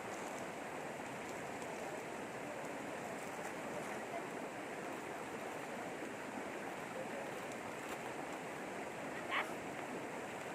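River water rushing steadily. A short high-pitched chirp sounds once about nine seconds in.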